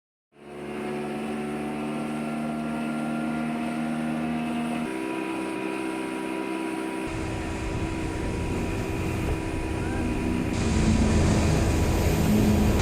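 Speedboat engine running with a steady drone that steps up in pitch about five seconds in. From about seven seconds a rushing noise of wind and water builds and grows louder as the boat gathers speed.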